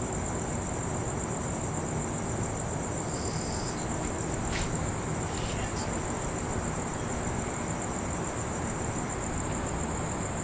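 Crickets trilling steadily in a high, pulsing chorus over a steady low background noise, with a single sharp click about four and a half seconds in.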